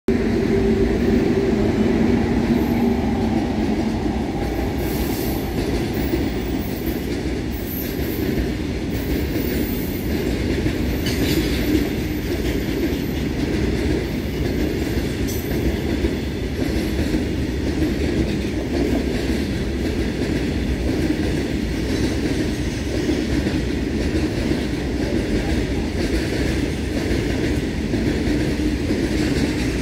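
Freight train of covered boxcars rolling past: a steady rumble and clatter of steel wheels on the rails, with a few short high-pitched wheel squeals in the first half. A low two-note hum fades out about four seconds in.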